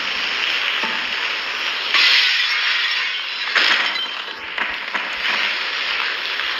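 Steady rushing storm noise of wind and rain, with two louder crashing bursts about two and three and a half seconds in.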